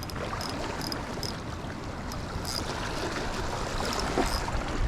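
Sea water washing along the shore in a steady rush, with short, faint high-pitched chirps scattered through it.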